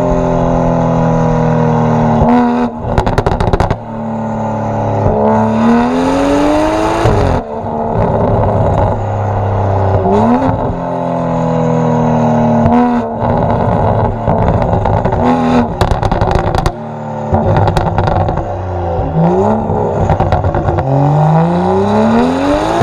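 Straight-piped, tuned BMW M135i turbocharged straight-six pulling hard through the gears. The pitch climbs, drops at each shift and climbs again several times, with short rattles of exhaust crackles and pops in between.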